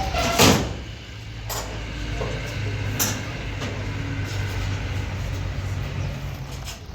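A car engine running steadily, with one loud bang about half a second in and a couple of lighter knocks after it.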